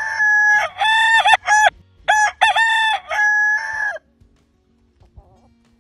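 Rooster crowing: two loud cock-a-doodle-doo crows back to back, with a short break between them, ending about four seconds in.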